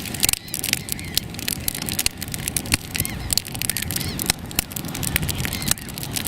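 Freshly lit campfire crackling as the kindling catches, with many sharp, irregular snaps.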